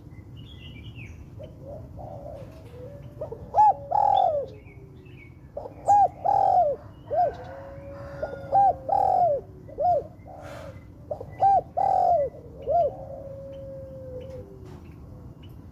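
Spotted dove cooing in four repeated phrases of several low coos each, a few seconds apart, with faint chirps of other birds in between.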